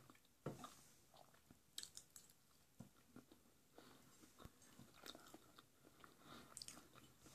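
Faint close-up chewing of a mouthful of seasoned potato slices, with scattered small mouth clicks and smacks.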